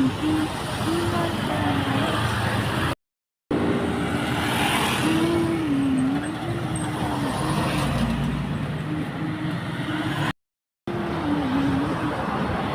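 Steady traffic noise of a busy street, with a wavering pitched tone over it. The sound cuts out completely twice, for about half a second each time.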